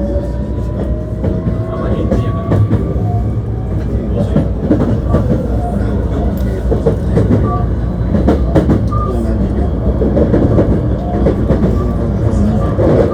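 Running noise inside a Hankyu 1300 series electric train. The Toyo IGBT-VVVF inverter whine rises in pitch and fades out a second or two in, then a steady rumble of wheels on rail with scattered clicks and knocks from the track.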